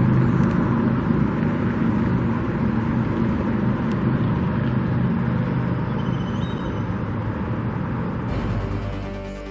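Road traffic: a vehicle engine running and slowly fading away, with music coming in near the end.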